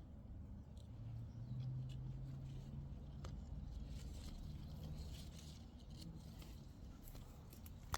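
Faint rustling and a few light clicks over a low steady hum: hands handling avocado blossoms while marking them.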